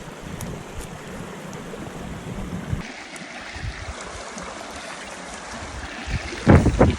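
Steady rushing of a flowing creek, with a brief loud low rumble a little before the end.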